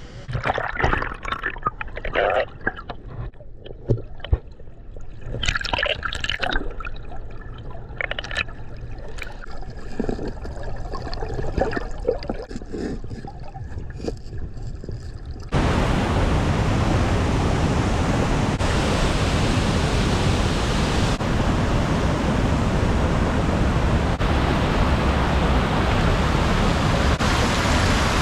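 Water splashing and sloshing close to the microphone, in irregular bursts. About halfway through it cuts abruptly to the loud, steady rush of a waterfall.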